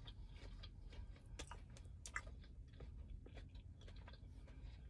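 Faint close-up chewing of a bite of Korean corn dog with a crunchy hot Cheetos coating, with irregular soft crunches and mouth clicks.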